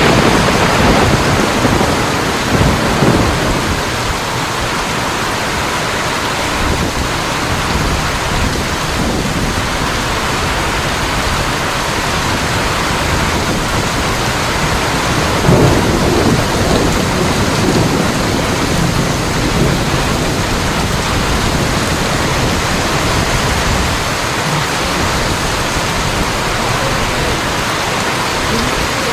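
Rain falling steadily, with a few louder low swells near the start and about halfway through.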